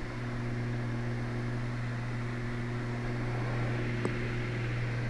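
Steady drone of the Twin Cessna 320's two piston engines heard from inside the cabin, a low, even hum with a faint tick about four seconds in. The right engine has newly worked cylinders being broken in on mineral oil, and the airplane is shaking with heavy vibration.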